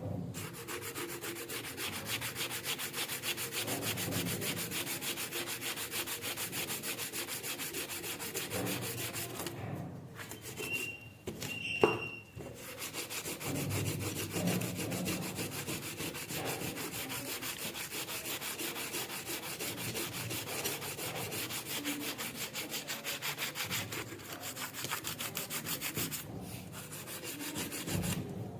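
Steady abrasive rubbing as rust is scrubbed off steel cutting pliers, a fast rasping rub. It stops for a couple of seconds around the middle, where there is one sharp click, then carries on.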